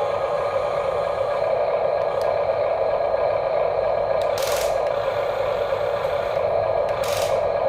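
Electric motors and plastic gearboxes of Huina radio-controlled construction models whirring steadily, with two short scraping rushes, one about halfway through and one near the end.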